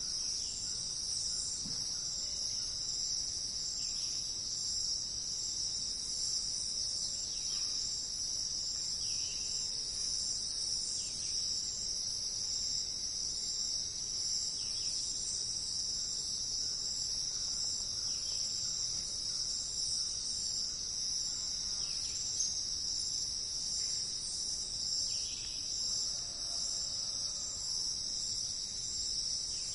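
Steady, high-pitched, unbroken insect chorus, with faint short chirps at intervals of a second or two.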